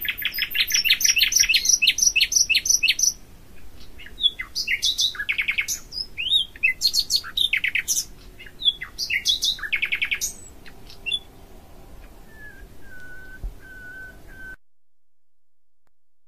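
Songbird singing: fast trilled phrases of rapidly repeated high notes, then a few softer, level whistled notes. The sound cuts off to silence near the end.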